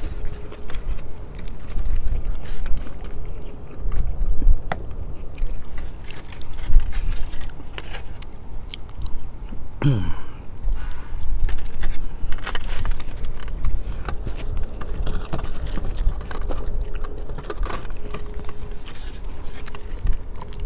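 Close-miked chewing and biting of a loaded chicken burrito: wet mouth sounds with many small clicks, going on throughout. About halfway through there is one brief falling vocal sound from the eater.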